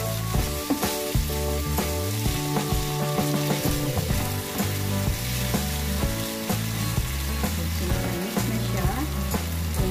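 Ground meat in tomato sauce sizzling in a frying pan while a wooden spatula stirs it, with small scraping clicks against the pan. Background music plays steady notes underneath.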